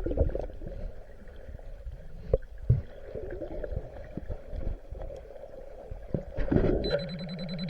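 Muffled water sloshing and gurgling with scattered knocks, as heard by a microphone in the sea. Near the end a steady high-pitched electronic beep starts and keeps going: an underwater metal detector signalling a target.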